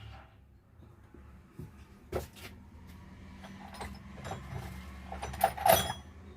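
Scattered clicks and knocks of metal parts and hand tools being handled on a workbench while an alternator is reassembled. The loudest is a quick cluster of knocks near the end.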